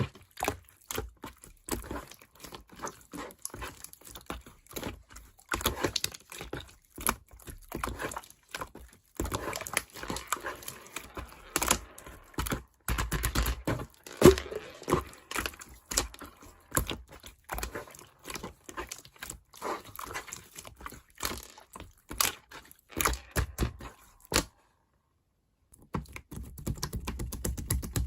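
Slime being squeezed and poked by hand, giving a dense, irregular run of sticky clicks and crackling pops, with a brief break of about a second near the end.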